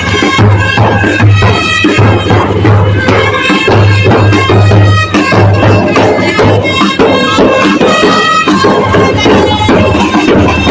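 Drum and bugle corps playing a piece: a steady drum beat with heavy bass drum under a brass melody.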